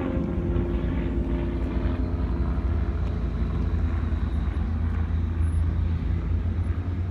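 Wind buffeting the camera's microphone: a steady, flickering low rumble.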